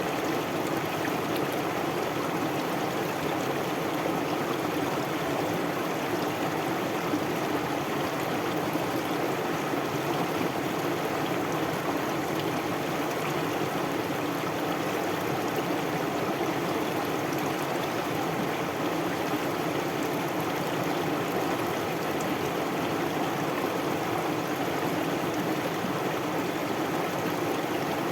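Stream water flowing steadily, a continuous even rush with no breaks.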